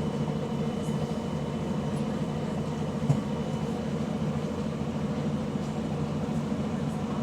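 A bus's diesel engine running steadily, heard from on board, with a drone that holds even throughout; the bus has an exhaust leak. A single short knock about three seconds in.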